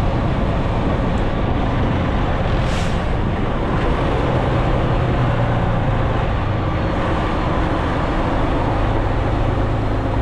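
Semi truck's diesel engine running with a steady low rumble, with a short hiss about three seconds in.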